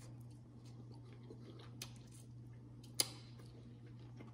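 Faint close-up chewing of a mouthful of seafood. A steady low hum runs underneath, and a single sharp click sounds about three seconds in.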